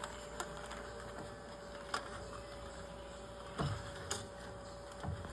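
A steady faint hum with a few scattered sharp clicks and two dull knocks, typical of hive frames and equipment being handled.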